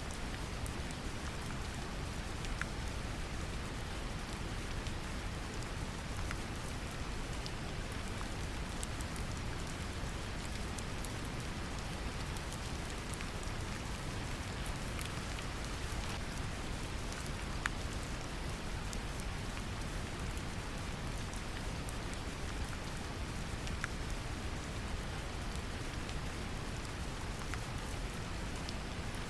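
Steady brown noise, strongest in the low end, mixed with gentle rain whose scattered drops tick lightly over it.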